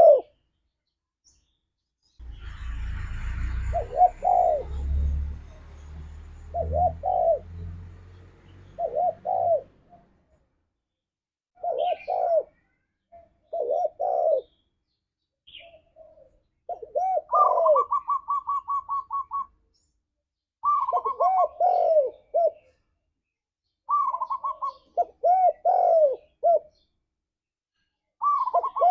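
Spotted dove cooing: short phrases of low rolling coos repeated every couple of seconds, with a quick run of evenly spaced higher notes about seventeen seconds in. A low rumble lies under the calls for the first several seconds.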